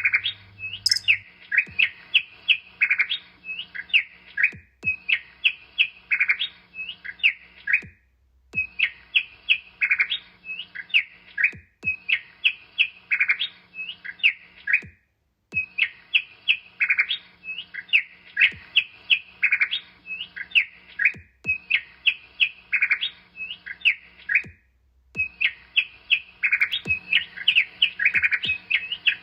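Small birds chirping and tweeting in quick, dense runs of high notes. The runs last a few seconds each and are separated by brief, abrupt gaps of silence.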